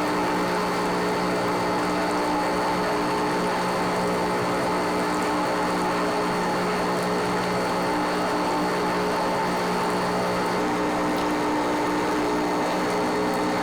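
Industrial plastic-processing machinery running steadily: a constant mechanical drone with several steady hum tones and a thin high whine that fades out about three quarters of the way through.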